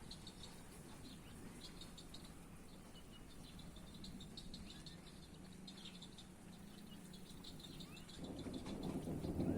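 Faint, rapid chirping of a night chorus repeating in short trains through the quiet. About eight seconds in, a low thunder rumble swells in and grows louder.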